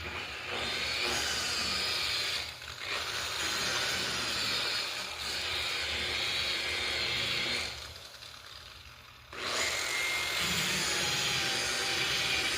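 DeWalt variable-speed buffer running with its pad on the car's painted hood, working rubbing compound into the clear coat. The motor eases off briefly about two and a half seconds in, stops for about a second and a half near eight seconds, then starts up again and runs steadily.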